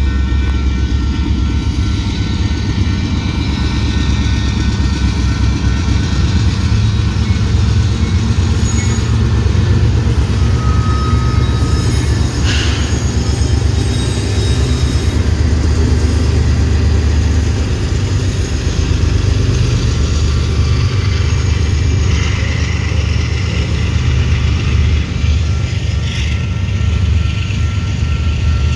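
A diesel-hauled freight train pulling out through a grade crossing. The locomotives give a steady, heavy, low rumble as they pass, and the railcars follow, rolling by on the rails.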